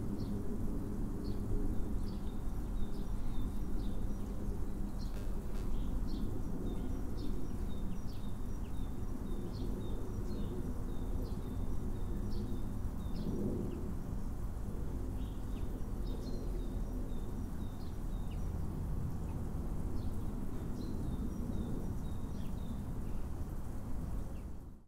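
Small birds chirping, short high calls scattered all through, over a steady low outdoor rumble. The sound cuts off suddenly near the end.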